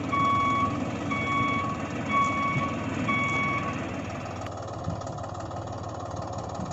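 Reversing beeper sounding a steady high beep about once a second, four times, then stopping, over a low steady motor rumble.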